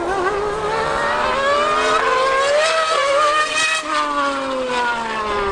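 High-revving racing engine at full throttle. Its pitch climbs steadily for about four seconds, then falls away near the end.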